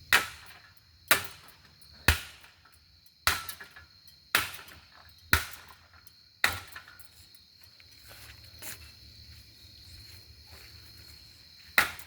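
Hard blows striking a ceiling fan, seven in a row about a second apart, then a single blow near the end. Crickets chirp steadily behind.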